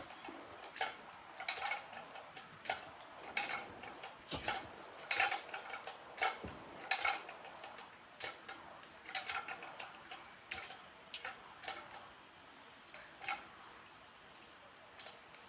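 Irregular sharp metallic clicks and clinks, roughly one or two a second.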